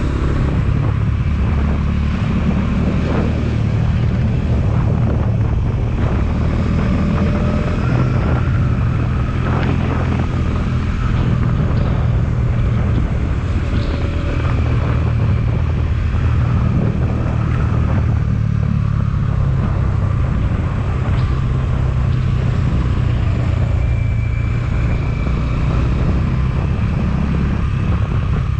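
Motorcycle engine running steadily while riding, a constant low rumble with no let-up.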